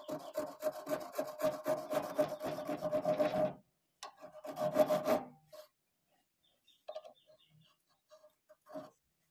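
Wood rubbing on wood: a lathe-turned wooden bird call worked by friction, giving a rasping squeak with a steady tone and quick strokes. It plays for about three and a half seconds, stops briefly, then gives a shorter second pass.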